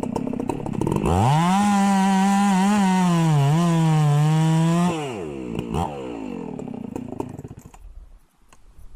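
Two-stroke chainsaw idling, then revved hard about a second in and held at full throttle for about four seconds, its pitch sagging slightly now and then as the chain bites into the wood. The throttle is then released, and after one brief blip the saw drops back to idle and fades near the end.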